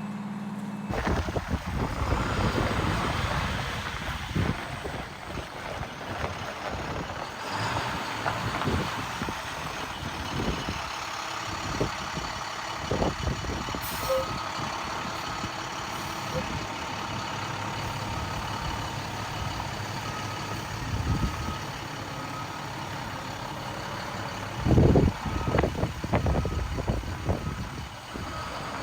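Heavy truck running in the background with wind buffeting the microphone, and a reversing alarm beeping faintly through the middle stretch.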